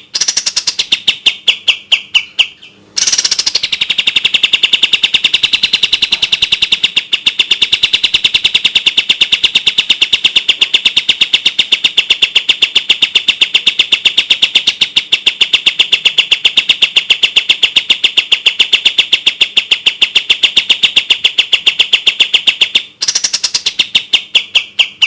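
Kapas tembak songbird singing its rapid-fire song: a fast, tightly spaced string of sharp, high chipping notes with brief pauses about three seconds in and near the end.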